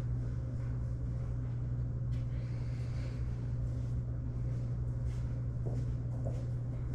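A steady low hum with a few faint ticks over it.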